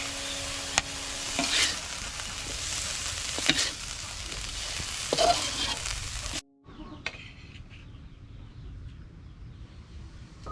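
Beef and green beans stir-frying in a hot pan: a steady sizzle with a few sharp scrapes of the spatula against the pan. About six seconds in, the sizzle cuts off abruptly, leaving a much quieter stretch with a few light clicks.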